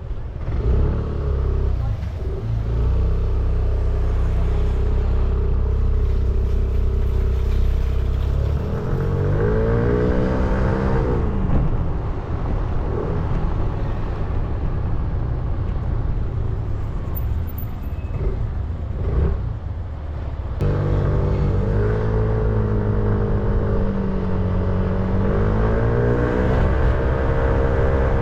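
A 300 cc motorcycle engine running while being ridden. Its note holds steady at first, then rises and falls in pitch as it accelerates and eases off, about ten seconds in and again through the last third.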